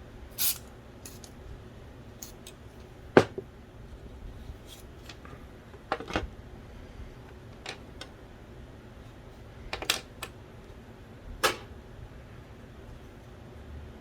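Scattered clicks and light knocks of small plastic and metal parts being handled while a Philips DVD drive from an original Xbox is taken apart, with the sharpest knock about three seconds in.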